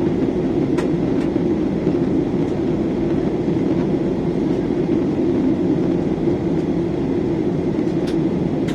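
Steady drone of an airliner's cabin in flight, engines and airflow heard from inside, with a few faint clicks.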